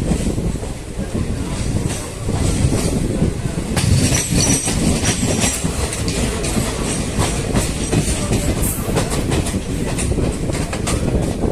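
Krishna Express passenger train running on the line: a steady rumble with wheels clattering over rail joints, growing busier about a third of the way in, and a brief high wheel squeal soon after.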